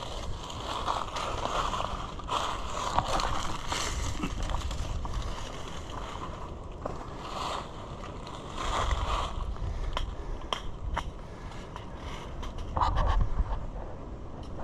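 Crunching and rustling of dry leaves, sticks and brush being trampled and pushed through, with sharp snaps of twigs.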